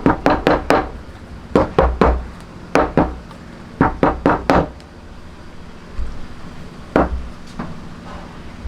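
Sharp knocks of a hand tool striking wood, in quick groups of two to four strikes, then a single louder knock about seven seconds in.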